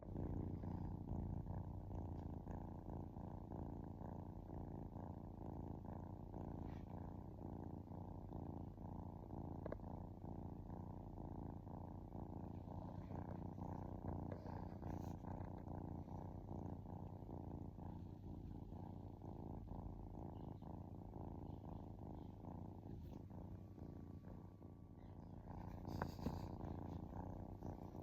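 Kitten purring steadily: a low, even rumble of fine rapid pulses, with a brief louder noise near the end.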